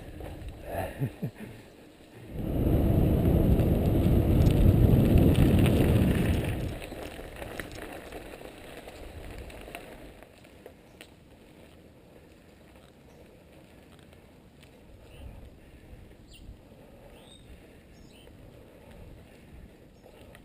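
Mountain bike rolling along a dirt trail, with tyre noise and wind rushing on the microphone. The rush gets loud for about four seconds, a couple of seconds in, then drops to a quieter steady rolling with light clicks and patter.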